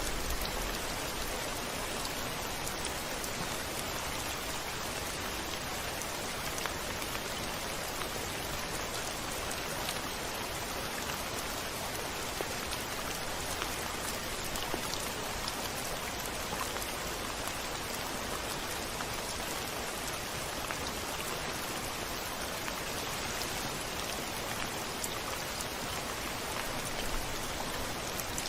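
Rain falling steadily: a dense, even hiss with scattered small drop taps and no thunder.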